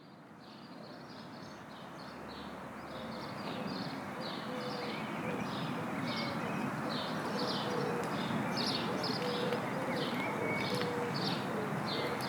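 Outdoor ambience fading in over the first few seconds: birds chirping over and over in short high notes, with lower cooing-like calls, above a steady rushing background.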